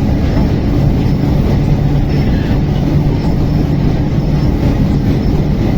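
A train running along the track: a steady, loud low rumble with a low hum and no clear breaks.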